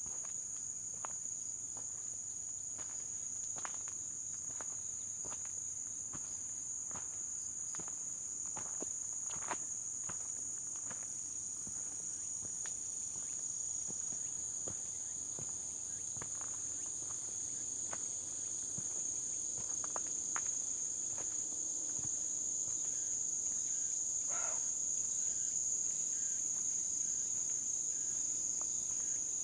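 Steady high-pitched insect chorus over the trail, with faint footsteps on the path ticking along at an unhurried walking pace beneath it. The insect buzz grows a little louder in the last third.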